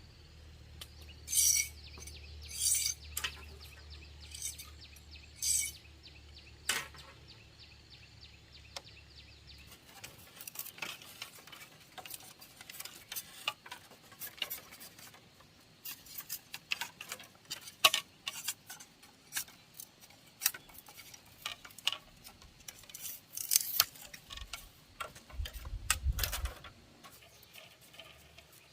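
Irregular light clicks, clinks and knocks of objects being handled, with a low hum that stops about ten seconds in.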